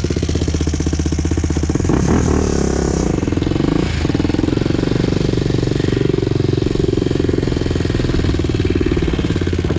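2001 Honda TRX400EX quad's single-cylinder four-stroke engine idling steadily after a restart.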